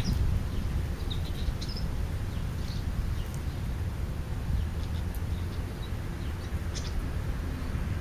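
Scattered short, high bird chirps, several over a few seconds, above a steady low outdoor rumble.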